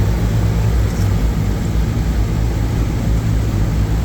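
Steady low rumble of an automated tunnel car wash heard from inside the car's cabin: wash machinery and spray running without any clear change.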